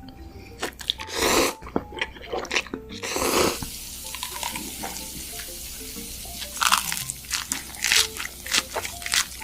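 Close-miked eating sounds: crunchy bites and chewing, with a cluster of sharp crunches in the second half, over light background music.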